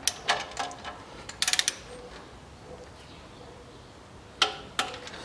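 Metal clicks of a ratchet or torque wrench, with clinks of tools on metal, as a timing-belt guide pulley bolt is tightened to torque. There is a quick run of about five clicks around a second and a half in, and two more single clicks near the end.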